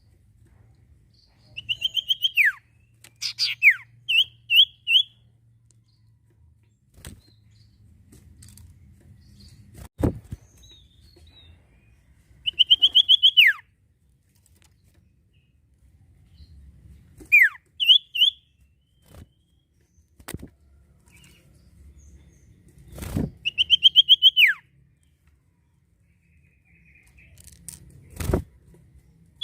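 A sirtu (sirpu) songbird singing short bursts of rapid chattering notes, several ending in a quick downward sweep, repeated every few seconds. Now and then a sharp thump comes between the phrases.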